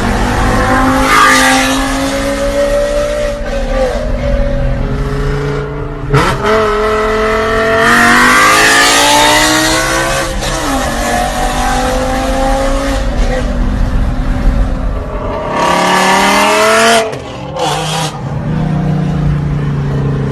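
Car engine with a loud exhaust accelerating hard through the gears: the engine note climbs and then drops sharply at each upshift, several times over.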